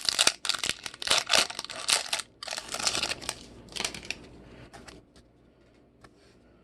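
A foil trading-card pack wrapper being torn open and crinkled: a rapid run of crackling and tearing for about three and a half seconds, then a few light clicks as the handling dies away.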